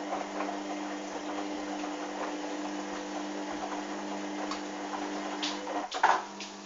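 Hoover washing machine running mid-wash with a steady hum and light ticking knocks. About six seconds in the hum cuts off with a sharp clunk.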